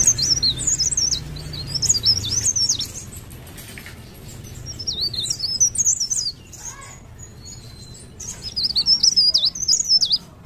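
Cikrak daun, a leaf warbler, singing in three rapid, twittering phrases of high, quickly bending whistles. The phrases come at the start, in the middle and near the end.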